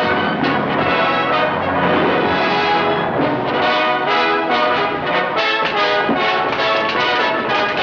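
Orchestral film-score music led by brass, playing loudly with a rhythmic pulse of accented notes.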